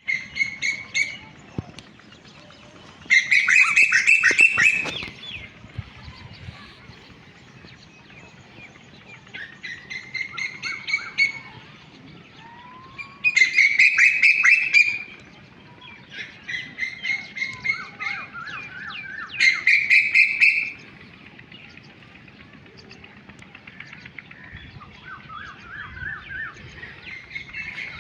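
A bird, which the uploader calls a cuckoo, calling in bursts of rapid repeated notes. Three loud bursts stand out, about a quarter, halfway and two-thirds of the way through, with softer trills in between.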